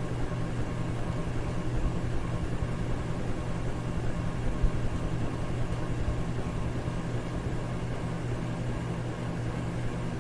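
Electric fan running steadily: a constant low hum under an even rush of air.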